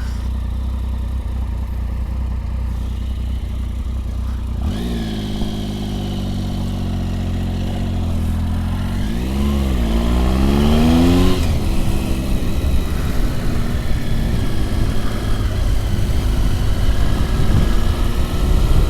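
Motorcycle engines. A low steady idle, then about five seconds in a second motorcycle arrives, its engine note rising and falling until about eleven seconds in. After that comes a louder, steadier engine and wind rush.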